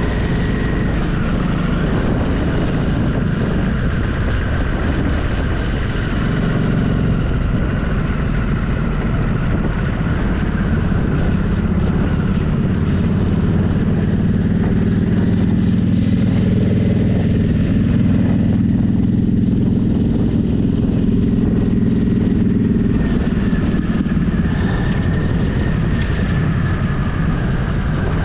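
Motorcycle engine running steadily under way, its low note growing stronger for several seconds around the middle of the ride.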